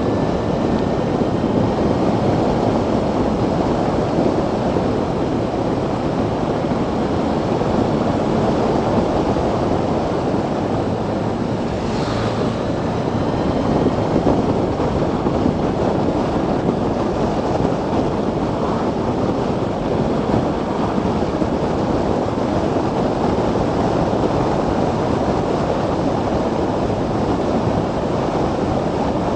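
Steady rush of wind over the microphone of an electric motorcycle riding at road speed, with a brief sharp tick about twelve seconds in.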